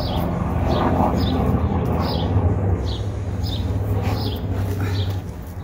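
A bird repeating a short, high, falling chirp about once or twice a second over a steady low hum.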